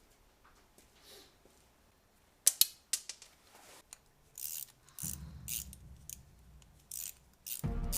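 Metal parts and hand tools being handled: a few sharp metallic clicks and clinks, then a run of short scraping rattles. Background music comes in near the end.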